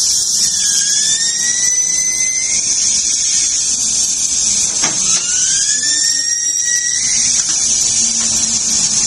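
Compressed-air hiss with an air tool whining up in pitch twice, each spin-up lasting about two seconds, and a single sharp knock near the middle.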